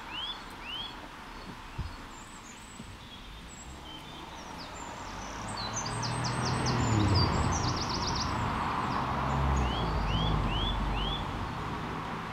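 Small birds calling and singing: a run of short chirps at the start and again near the end, with higher twittering in between. Under them, the low rumble of a passing engine swells to its loudest about seven seconds in, then fades near the end.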